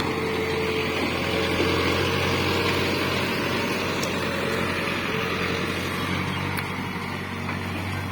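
Tractor engine running steadily with a continuous low hum, without pauses or revving.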